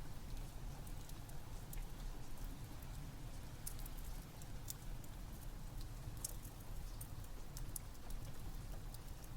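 Fireplace wood fire crackling, irregular sharp pops and snaps scattered over a steady low rush, mixed with rain.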